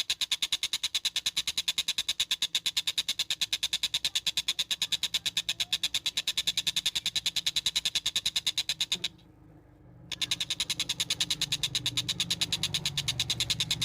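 Tengkek buto kingfisher calling a long, rapid, evenly spaced run of sharp high notes, the train-like call it is kept for. The run breaks off for about a second just after nine seconds in and then starts again over a faint low hum.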